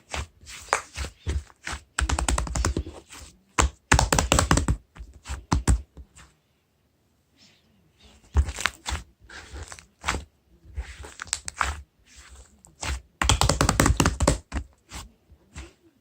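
Bursts of rapid clicking and crackling with knocks and scrapes, in clusters of a second or two separated by short pauses, from objects being handled on a hard surface.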